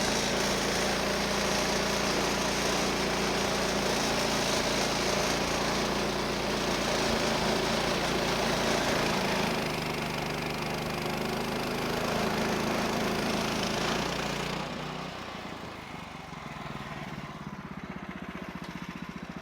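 The sawmill's 14 HP Kohler engine running at speed, driving the band blade through a log, with a dense, steady sawing noise. About fifteen seconds in, the sound drops to a quieter, evenly pulsing engine idle as the throttle is let off at the end of the cut.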